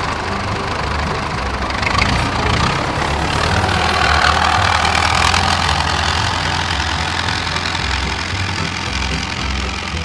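A mini tractor's small engine running steadily.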